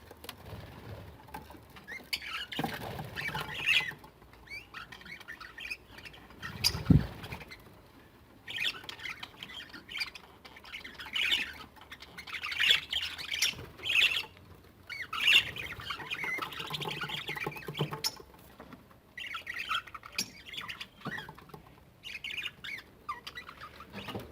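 Cockatiels and budgerigars in an aviary squawking and chattering as they crowd in to feed. There is a single thump about seven seconds in.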